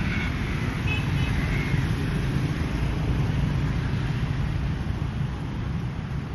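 Passing road traffic: a steady rumble of engines and tyre noise from vehicles going by on a busy road.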